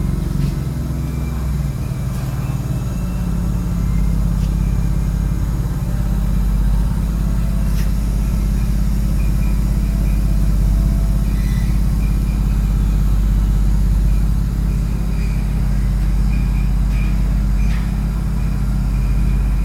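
2016 Ford F-150's 3.5 L EcoBoost twin-turbo V6 idling steadily shortly after a cold start, heard through a new custom 3-inch stainless catback exhaust with Thermal Dynamics mufflers and side-exit dual tips. The exhaust note is low and even, with no revving.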